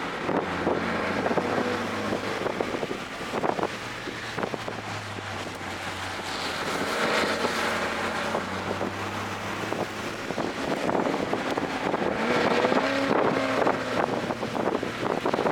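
2024 Toyota GR Corolla's turbocharged 1.6-litre three-cylinder engine driven hard on a circuit, its pitch repeatedly climbing and dropping as it revs out and lifts through corners, with wind buffeting the microphone.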